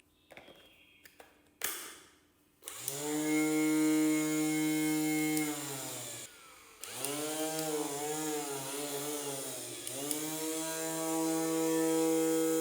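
Small DC775 electric motor of a homemade PVC-bodied angle grinder, after a few clicks and a knock: it spins up with a rising whine, runs, winds down and stops briefly, then starts again. Its pitch wavers and dips for a few seconds before settling into a steady high whine.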